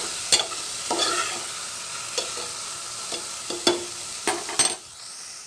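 Metal spoon stirring onion and tomato frying in oil in a metal pot: repeated scrapes and clinks against the pot over a steady sizzle. It quietens near the end.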